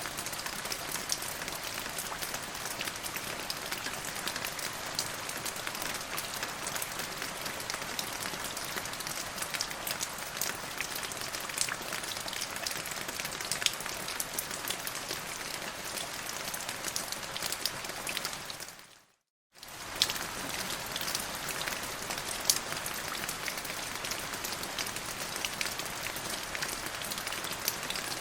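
Steady rain falling, with many separate drops ticking sharply over an even hiss. About two-thirds of the way through it fades briefly to silence and then starts again abruptly.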